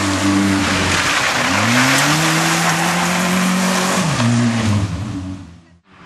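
Opel Corsa competition car engine accelerating hard: its pitch rises steeply about a second and a half in and holds high under load, then drops as the driver lifts or shifts about four seconds in. A loud hiss of noise runs under it, and the sound fades out sharply near the end.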